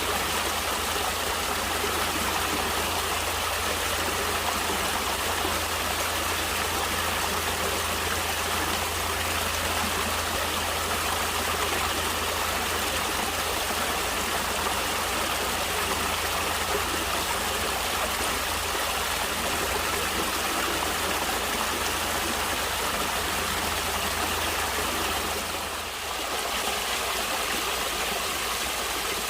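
Flowing stream water rushing and splashing steadily, briefly dropping in level near the end.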